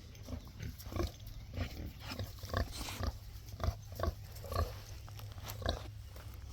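Pig grunting: a steady run of short, low grunts, about three a second.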